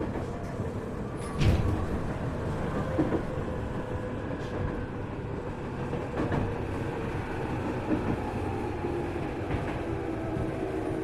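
Onboard running noise of a Tokyu 1000 series electric train car: steady rumble of wheels on rail with scattered clicks. A heavy clunk comes about a second and a half in, and faint steady tones come in near the end.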